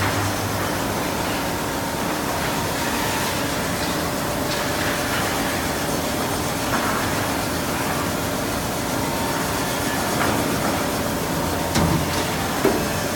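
CNC lathe running, a steady machining noise with faint steady tones and a few short knocks, the sharpest near the end.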